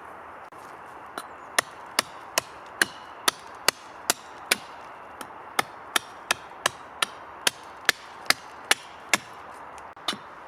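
A hand tool striking wood in rapid, even chopping blows, about two and a half a second, with a short break near the middle.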